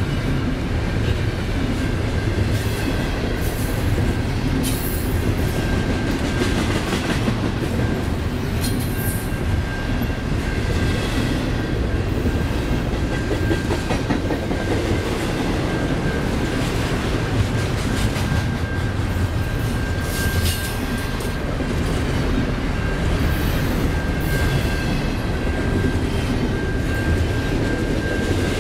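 Double-stack intermodal container train's well cars rolling past, a steady rumble of wheels on rail with irregular clacks over the joints and a thin, steady high whine.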